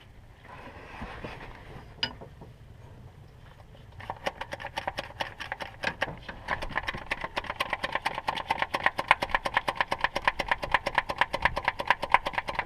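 Rapid, steady mechanical clicking, about eight clicks a second, starting about four seconds in and growing louder. Before it there is a faint rustle and a single sharp knock about two seconds in.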